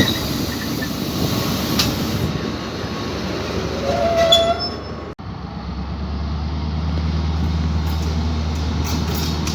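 Train moving through a station with rolling rumble and a brief high wheel or brake squeal about four seconds in. After a sudden cut, a steady low hum follows, as of a train standing with its equipment running.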